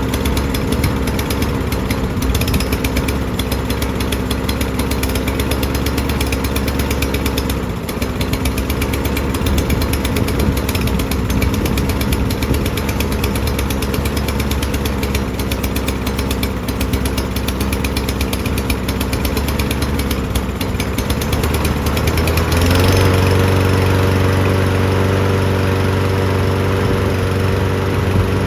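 Briggs & Stratton engine on a Toro walk-behind lawn mower running, its speed wavering and dipping briefly about eight seconds in. About twenty-two seconds in it picks up to a higher, steady speed, which the mechanic puts down to a sticking choke flap.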